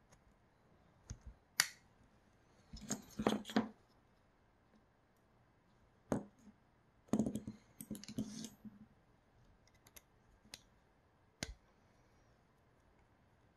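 Sharp clicks and short bursts of light clatter from small tools and parts being handled while a 3D-printer extruder is taken apart, with two busier spells of handling.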